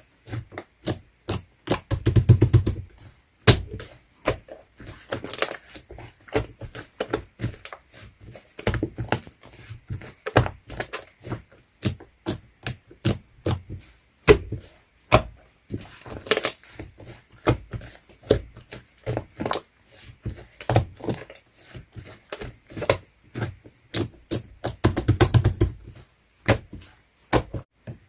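Slime being squeezed and poked by hand, giving quick, irregular sticky clicks and pops. There are denser runs of squishing about two seconds in and again near the end.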